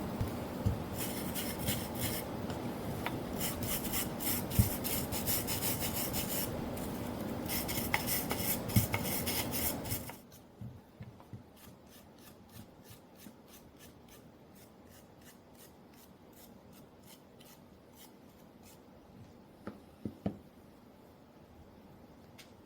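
Wire brush scrubbing over the burnt, charred edges of old fence-picket wood in quick rasping strokes. After about ten seconds the scrubbing stops, leaving only a few light scrapes and taps.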